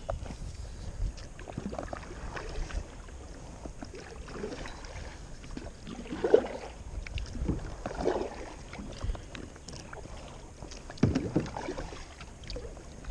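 Kayak paddle strokes: the blades dip and splash in the water every couple of seconds, over a low rumble of wind on the microphone.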